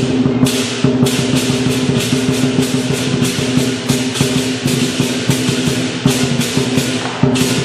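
Lion dance percussion: a big drum beating with cymbals clashing in a steady rhythm, about two to three crashes a second, over a sustained low ringing.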